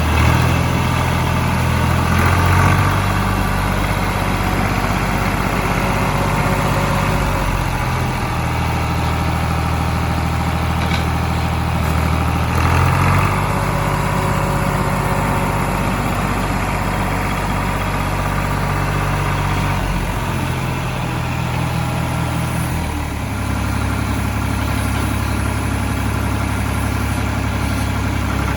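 Massey Ferguson 35X tractor's three-cylinder Perkins diesel engine running, its note shifting to a new steady pitch several times as the revs change.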